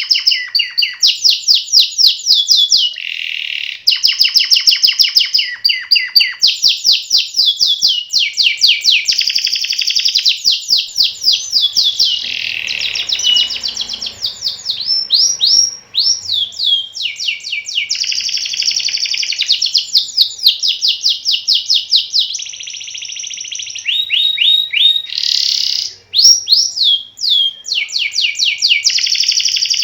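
Domestic canary singing a long, nearly unbroken rolling song of fast trills, with a few sweeping whistled notes and only brief pauses.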